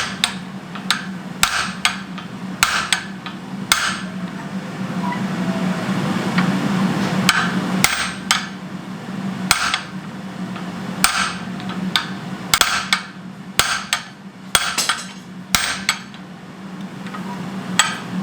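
Hand hammer blows on hot steel against an anvil, struck irregularly with a pause of a few seconds in the middle, each blow ringing briefly. A steady low hum runs underneath.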